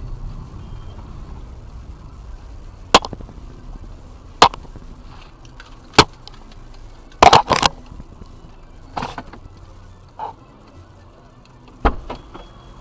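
A run of sharp knocks and bangs, about six over ten seconds, with a quick cluster in the middle, over the low steady rumble of a car on the move.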